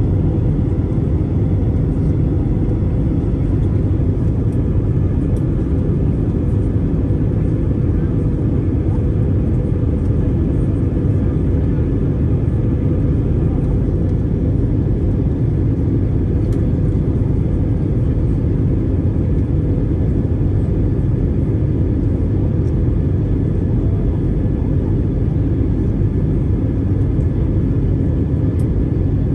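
Steady low rumble of a car driving at an even speed, with road and engine noise and a faint steady hum.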